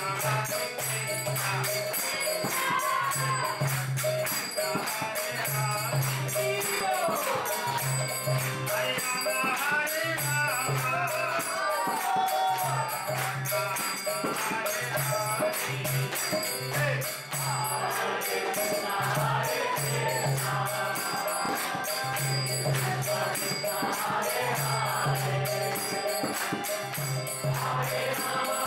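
Devotional kirtan: voices chanting a slow melodic prayer, with a steady jingling beat from small hand cymbals and a low pulse repeating about every second and a half.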